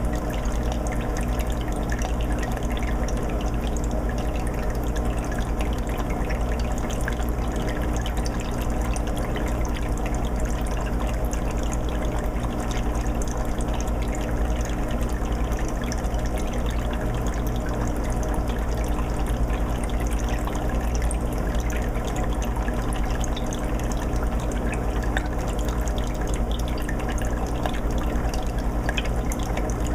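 Aquarium filter running on a 20-gallon fish tank: a steady trickle and splash of water over a low, even motor hum.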